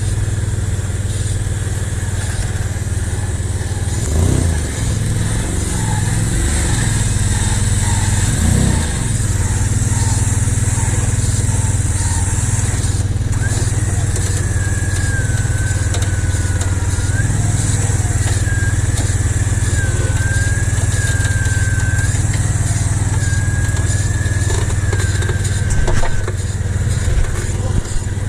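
Off-road 4x4 engine running steadily. A thin, slightly wavering high-pitched tone sounds over it from about halfway in until near the end.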